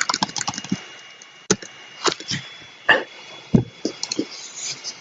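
Irregular clicks and taps of a computer keyboard and mouse, a quick cluster in the first second and then single clicks every half second or so.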